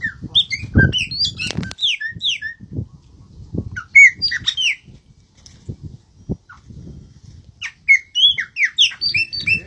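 Birds calling in three bouts of quick, sharp chirps and squawks, each call a short downward sweep, with low rustling and knocks underneath.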